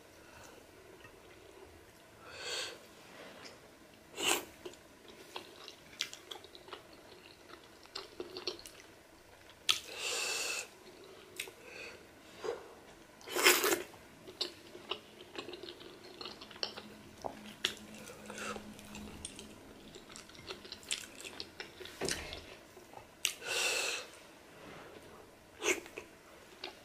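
Close-miked eating of pork pepper soup and fufu by hand: wet chewing with lip smacks and small clicks, broken by several louder, longer wet mouth sounds, the loudest about halfway through.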